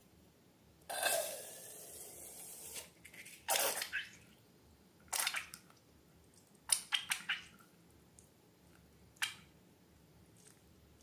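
Slime being handled and squeezed: a longer hissing squelch lasting about two seconds near the start, then a string of short wet squishes and clicks, several of them close together in the middle.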